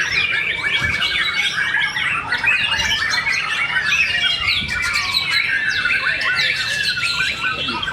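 Many songbirds singing at once, a dense overlapping chorus of rapid chirps, trills and whistles.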